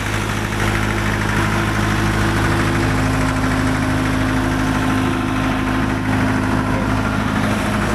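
Generator set engine running steadily at constant speed with a low, even hum.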